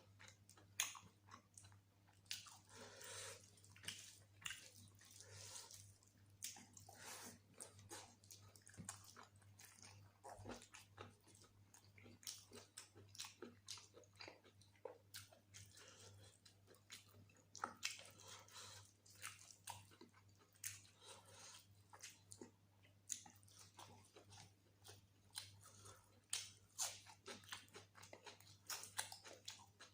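Close-miked eating of mutton curry with rice: irregular wet chewing, lip smacks and small mouth clicks, quiet but continuous.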